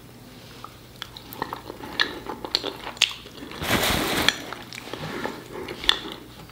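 Close-up wet chewing of a thick, creamy mouthful of cheesy shredded chicken and white rice, with small mouth clicks and smacks and a brief, louder breathy rush about four seconds in.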